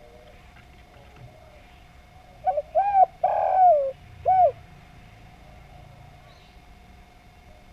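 Spotted dove (derkuku/tekukur) giving one cooing phrase about two and a half seconds in: a couple of short coos, a longer drawn-out coo that falls at its end, then one last short coo.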